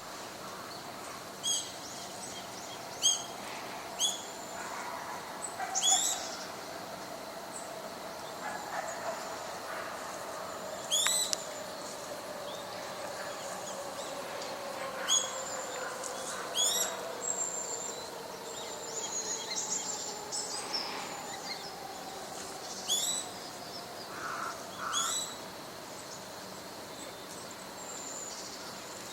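Wild bird calling: about ten sharp, high-pitched calls at irregular intervals, each a quick downward whistle. A faint low drone slowly falls in pitch underneath.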